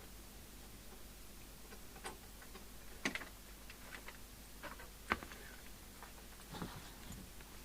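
Scattered small clicks and taps from equipment being handled on a workbench, irregular rather than rhythmic, the sharpest about three and five seconds in, over a faint steady mains hum.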